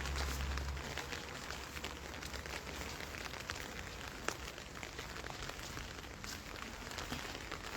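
Steady rain falling, an even patter dotted with single drops ticking sharply, with a low rumble in the first second.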